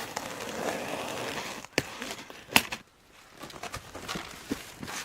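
Objects being handled: an even rustle for a second and a half or so, then two sharp knocks under a second apart, the second the loudest, followed by scattered light taps.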